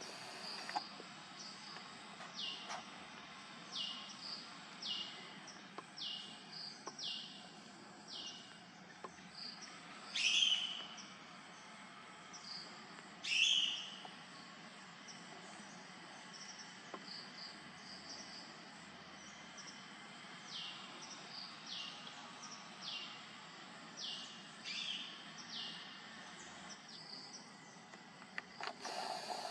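Bird calling outdoors: a run of short notes that each slide down in pitch, repeated about once a second in bouts. Two louder, sharper calls come about 10 and 13 seconds in.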